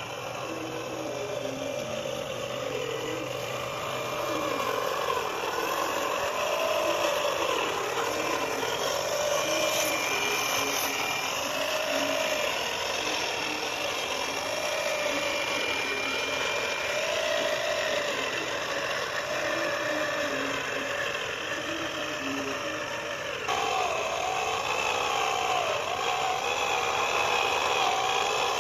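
Small electric geared motor of a homemade RC tractor running, whirring with gear noise, its pitch wandering up and down with speed and load. About three-quarters of the way through it gets louder and higher.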